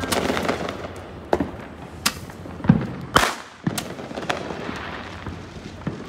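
Fireworks going off: sharp bangs at irregular intervals, about seven in six seconds, the loudest around the middle.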